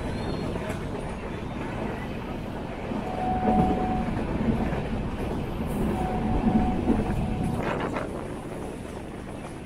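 Moving passenger train heard from on board: a steady rumble and clatter of wheels on the track. A thin high tone sounds twice, briefly about three seconds in and for longer about six seconds in.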